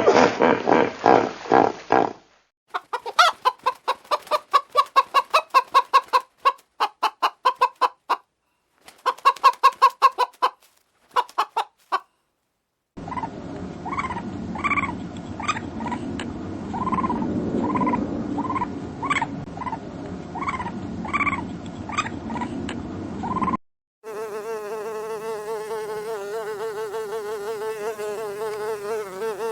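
A sequence of short animal clips. First come bursts of rapid clicking trills, then a chicken clucking repeatedly, then from about 24 s a fly buzzing steadily.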